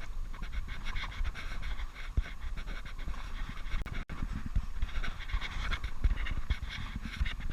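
A man panting hard and fast, rapid ragged breaths in distress, with low thumps underneath.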